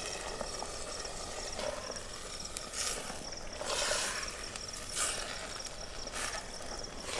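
Crickets chirping steadily, with about five short bursts of sizzling as vegetables hit the hot oil in the pan.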